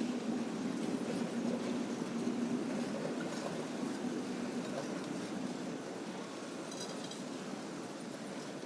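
Steady vehicle running noise with a low hum that fades over the first few seconds, and a brief faint clink about seven seconds in.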